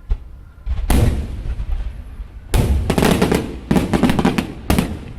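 Fireworks bursting: a sharp bang about a second in, then a run of louder bursts with dense crackling over the last half, ending with a final bang near the end.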